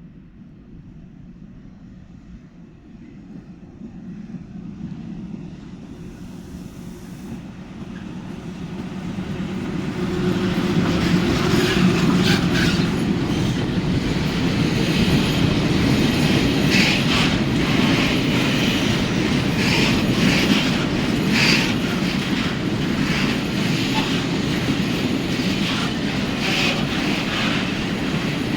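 Freight train approaching and passing: a low rumble builds over the first ten seconds, then the wagons roll by with the wheels clattering and squealing on the rails.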